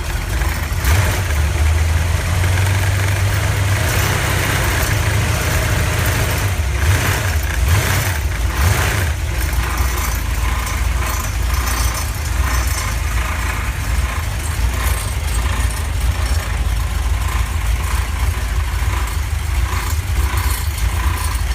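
Chevy 350 small-block V8 running out of the car on an engine stand, louder and busier for the first nine seconds or so, then settling into a steady idle.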